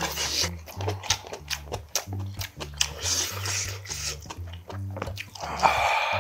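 Close-miked chewing and wet mouth clicks over background music with a steady, repeating bass line. A louder rasping noise comes near the end.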